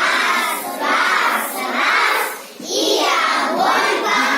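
A group of children singing together in long, drawn-out syllables, with a short break about two and a half seconds in.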